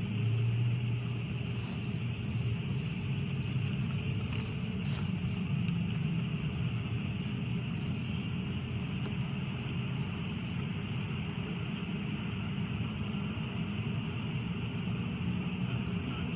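Steady low rumble of a police car, heard from inside the vehicle.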